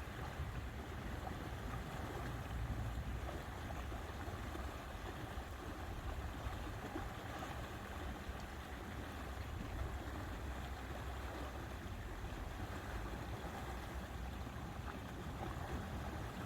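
Steady lakeside ambience: wind with a low rumble and a continuous hiss of moving water, with no separate events standing out.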